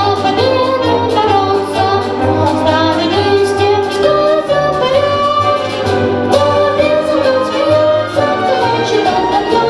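A young soloist singing a lively song over orchestral accompaniment with brass and a steady bass line.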